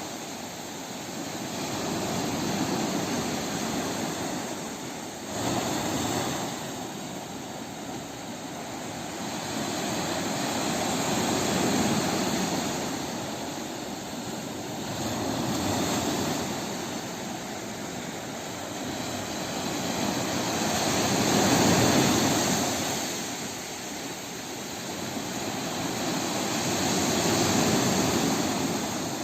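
Sea waves breaking and washing ashore, a steady roar of surf that swells and fades every few seconds, with a sharper break about five seconds in.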